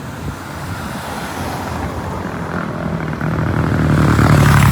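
A motor vehicle's engine running steadily and growing louder, loudest near the end.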